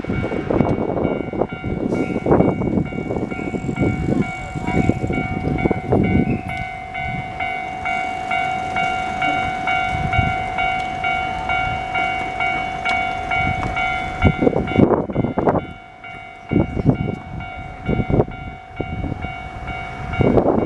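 Keio Line train running over a level crossing, its wheels clattering in a quick rhythm over the rail joints, while the crossing's warning alarm rings steadily above it. The clatter eases about fifteen seconds in and picks up again near the end.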